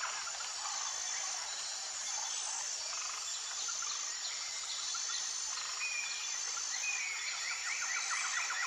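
Nature ambience: a steady high insect drone, with rapid pulsing trills and short calls from small animals that fade early on and come back near the end.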